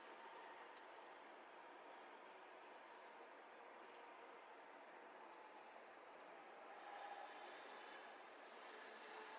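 Faint, scattered high-pitched chirps of small birds over a steady background hiss.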